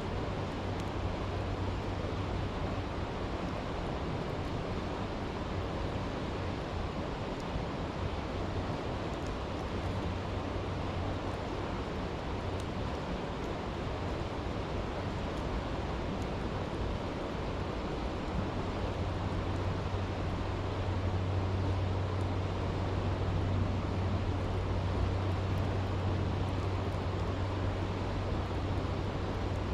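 Steady rush of a flowing stream, with a few faint crackles from a campfire.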